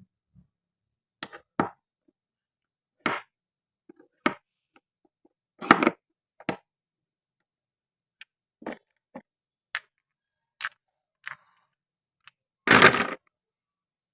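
Short clicks and knocks of wooden and plastic toy fruit and vegetables being handled and cut, each one separate, with a longer, louder scraping sound about thirteen seconds in.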